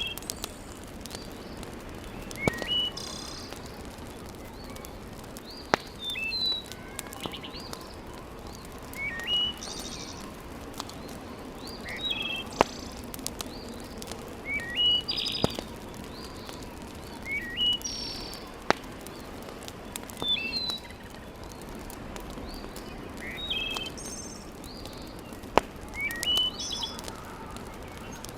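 A songbird repeats a short chirping phrase about every three seconds over a wood fire that crackles steadily, with a few sharp, loud pops.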